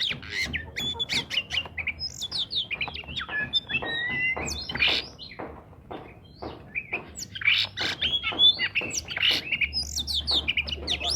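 Oriental magpie-robin singing a fast, varied song of whistled notes mixed with harsh chattering strokes, with hardly a pause.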